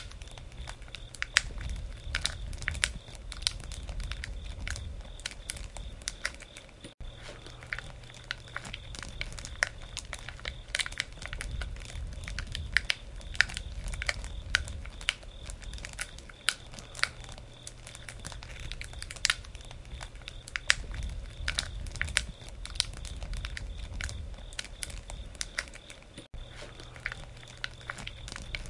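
Wood campfire crackling and popping: constant irregular snaps over a low rumble of the flames.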